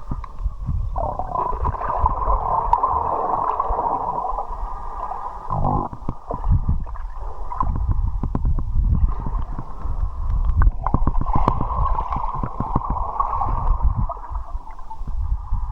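Muffled rushing and gurgling of river water around a camera held in the current, with many small clicks and knocks over a low rumble.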